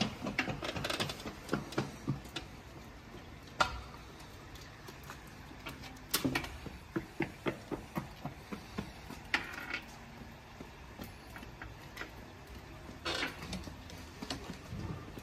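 Light rain with irregular small taps and splashes of toddlers' footsteps on wet asphalt, and a few louder knocks now and then.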